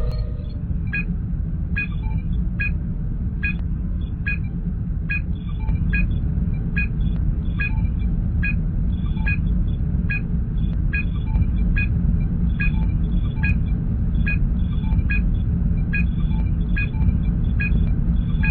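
Star Trek starship bridge ambience sound effect: a steady low engine rumble under a short electronic scanner blip that repeats a little more than once a second.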